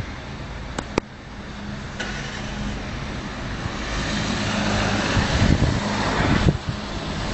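A road vehicle passing: engine and tyre noise grow louder over a few seconds, then drop away suddenly near the end. Two sharp clicks come about a second in.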